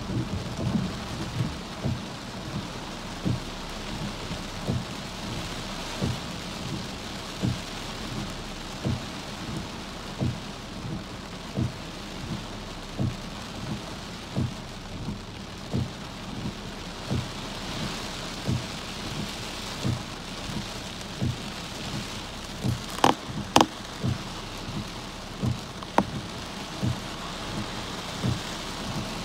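Rain on a car's windshield and roof, heard from inside the car: a steady hiss of rain with frequent heavy drops thudding irregularly, about one a second. Late on, two sharp, loud taps come about half a second apart.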